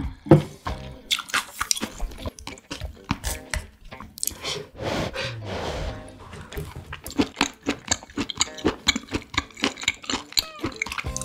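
Close-up chewing and biting of chop steak, beef cubes and vegetables, with many short wet mouth clicks. There are two sharp knocks at the very start, over faint background music.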